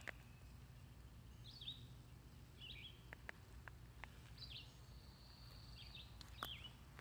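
Faint outdoor ambience: a songbird gives short chirping calls several times, with a longer held note about five seconds in, over a low steady background rumble and a few light clicks.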